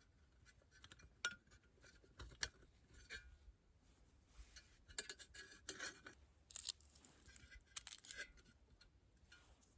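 Faint, scattered clicks, light clinks and short rustles of small objects being handled.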